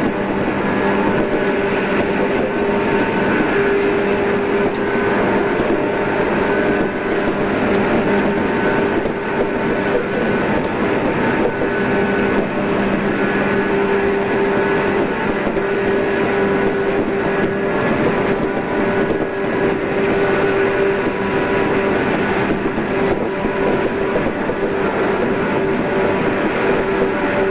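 JR East 113 series electric train running at a steady speed: a constant rumble with a whine held on one pitch, dulled in the treble by cassette tape.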